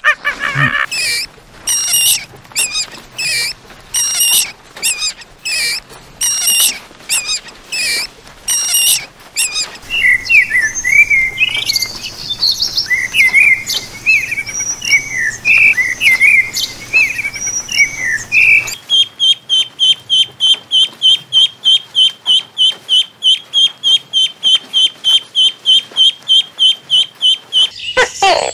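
Bird calls in three stretches: first a run of separate calls, one every half-second or so; from about ten seconds a warbling song of quick chirps; and from about nineteen seconds a fast, even series of high chirps, about four a second, stopping near the end.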